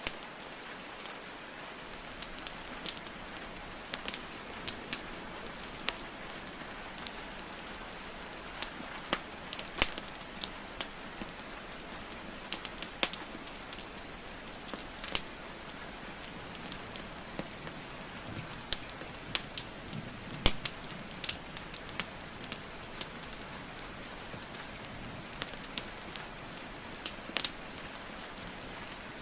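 Steady rain hiss mixed with a crackling wood fire: irregular sharp pops and snaps of burning logs, a few a second, with one louder pop about two-thirds of the way through.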